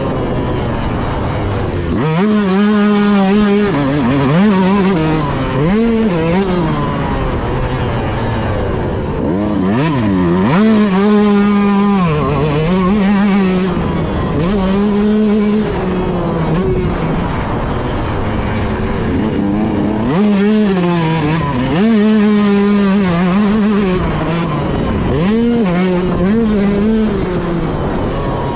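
Motocross dirt bike engine under race throttle, revving up and dropping back again and again as the rider opens and closes the throttle, with a continuous rush of noise underneath.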